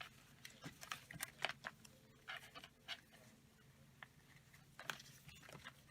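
Faint, irregular rustling and light clicks of paper being handled and shuffled through, with a low steady hum underneath.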